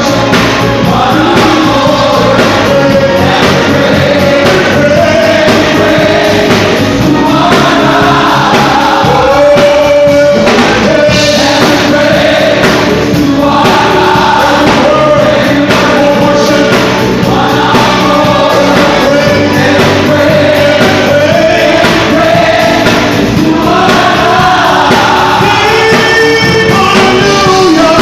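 Gospel choir and singers performing worship music, loud and continuous.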